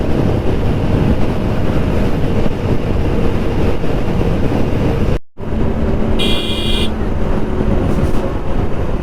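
Motorcycle riding on a highway: engine running under heavy wind noise on the mic. The sound drops out suddenly for a moment about five seconds in, and a vehicle horn honks briefly about a second later.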